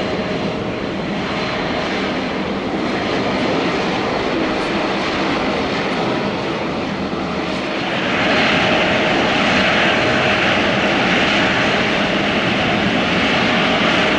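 Airliner engine noise at an airport, steady, with a faint steady whine, growing louder about eight seconds in.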